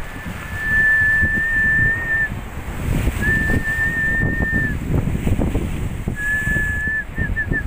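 Whistling: three long notes held on one high pitch, then a quick warbling run near the end. Underneath, wind buffets the microphone over the surf.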